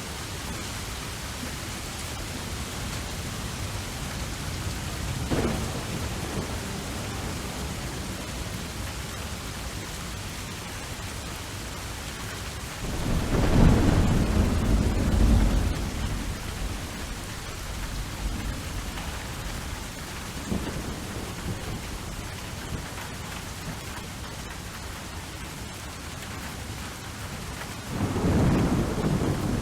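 Steady rain falling, with rolling thunder that swells loudest about 13 seconds in and rumbles again near the end.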